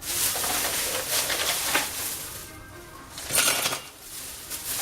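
Crushed ice clattering and rattling as it goes into the blizzard maker's canister, in uneven noisy surges with a louder burst about three and a half seconds in.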